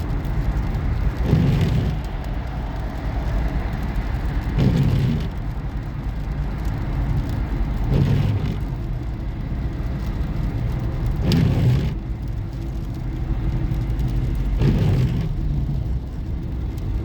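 Car road noise: a steady low rumble of a vehicle on the move, with a brief swell of noise about every three seconds.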